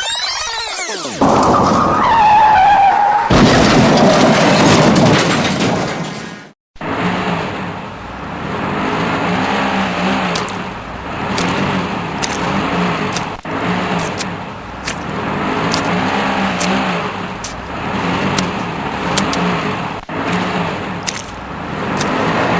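Toy-video vehicle sound effects: a sweeping whoosh, then a steady engine running sound that swells and eases about every two seconds, with sharp clicks through it.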